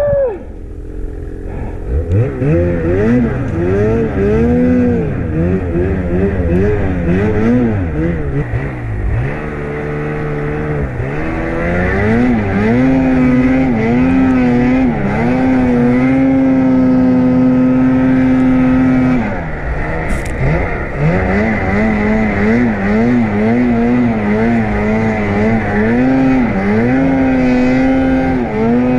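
Snowmobile engine revving up and down repeatedly as the sled is ridden. It holds a steady high pitch for several seconds midway, drops off briefly, then revs up and down again.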